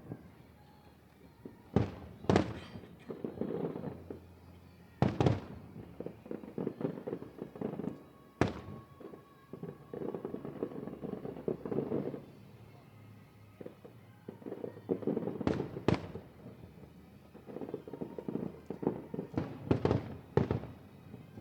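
Aerial fireworks display: shells bursting with sharp bangs every few seconds, several in quick succession near the end, with stretches of dense crackling between them.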